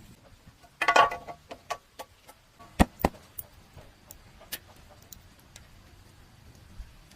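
Sharp clicks and knocks of tools and metal parts being handled: a short clatter about a second in, two loud knocks near three seconds in, then a few fainter ticks.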